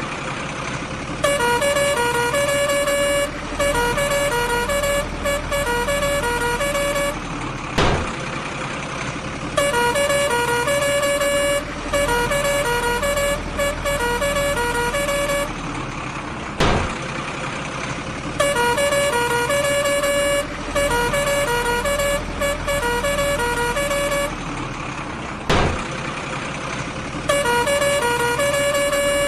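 Battery-powered toy truck's sound chip playing a looping electronic horn tune of stepped beeping notes, repeating about every nine seconds with a click at each restart, over a steady low hum.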